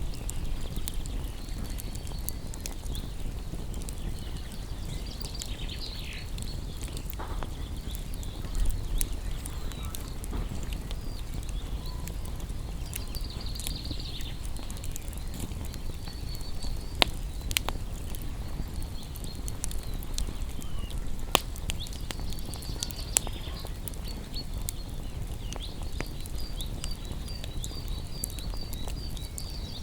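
Wood campfire burning, with scattered sharp crackles and pops over a steady low rumble. Faint high chirping comes and goes in the background.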